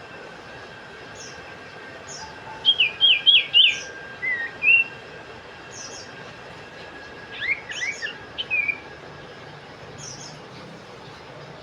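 Cipoh (iora) calling: a quick run of four slurred whistled notes, a couple of lower notes after it, then another tumbling cluster of notes about halfway through. Short high chirps repeat about once a second behind it.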